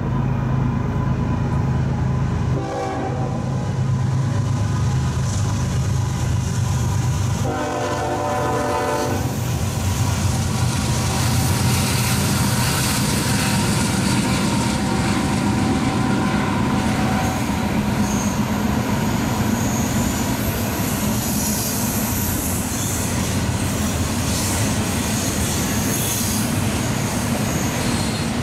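Union Pacific double-stack intermodal train led by a GE ES44AH diesel locomotive passing close by. Its horn sounds a short blast about three seconds in, then a longer one about eight seconds in, over the drone of the diesel engines. The locomotives give way to a continuous rumble of stack cars with clickety-clack and high-pitched wheel squeal.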